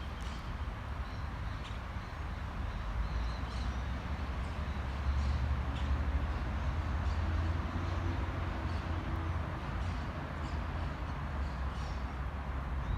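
Outdoor city-park ambience: a steady low rumble of traffic that swells midway, with scattered short bird chirps over it.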